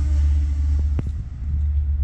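Low rumble of a passenger train moving away, with a steady hum that stops a little under a second in and a sharp click about a second in.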